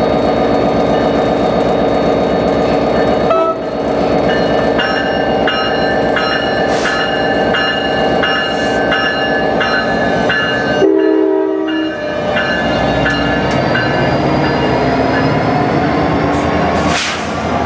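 A train running by with its horn sounding over the steady noise of the train.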